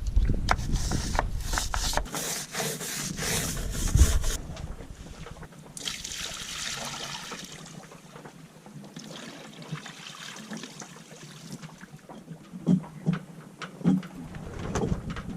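Brush scrubbing a sailboat's deck in quick rasping strokes for about four seconds, then stopping abruptly; after that, softer water trickling and sloshing, with a few knocks near the end.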